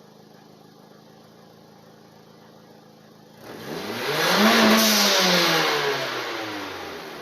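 Mitsubishi Lancer Ralliart's 4B11T 2.0-litre turbocharged four-cylinder heard at the exhaust, idling quietly and then revved once about three seconds in. The revs climb for about a second and fall back slowly toward idle.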